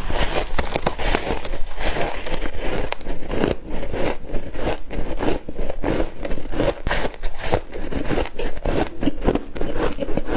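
Close-up chewing of frost: dense, irregular crunching and crackling, bite after bite.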